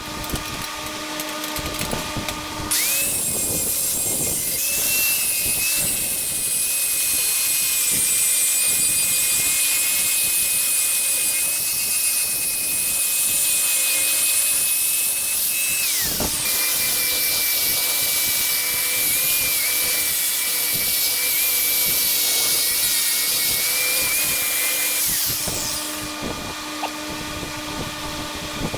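Angle grinder with a flap disc grinding a steel plate clean: a steady high whine over a dense hiss, running about 3 s in until about 16 s, pausing briefly, then grinding again until about 25 s and starting once more at the very end.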